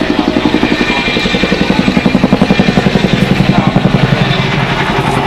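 Boeing Chinook tandem-rotor helicopter flying its display, the blades beating in a fast, even pulse that grows louder about two seconds in.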